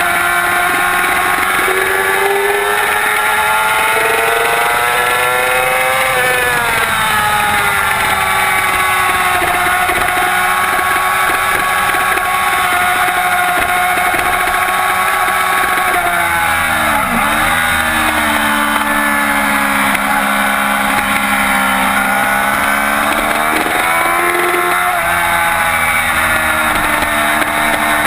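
2007 Yamaha YZF-R6's inline-four engine running hard at high revs. The pitch climbs over the first six seconds, holds steady, drops sharply about seventeen seconds in, then climbs again.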